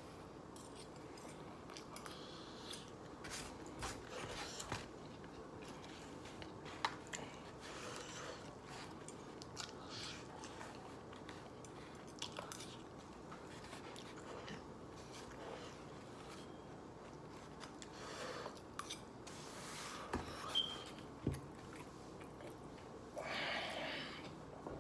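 Faint chewing and mouth sounds of someone eating a wet burrito, with scattered light clicks of a fork and knife against a foam takeout container. A brief rushing noise near the end.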